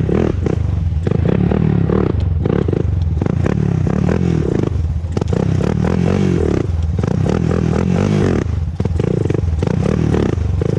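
Honda TRX400EX ATV's single-cylinder four-stroke engine running while being ridden, its note rising and falling with the throttle and dipping briefly about five and eight and a half seconds in.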